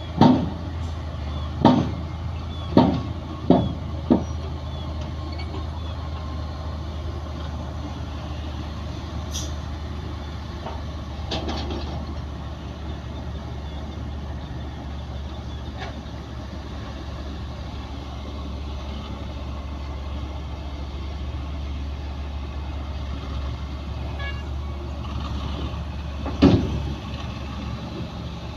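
Heavy diesel earthmoving machinery running with a steady low drone, broken by sharp metallic clanks and knocks: a quick run of five in the first four seconds, and one loud bang near the end.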